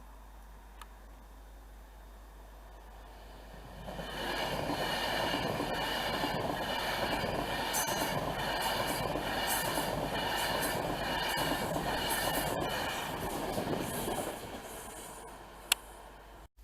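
Train passing at close range: the noise of wheels on rails rises sharply about four seconds in, holds loud with a repeated clatter over the rail joints, then fades away. A single sharp click near the end.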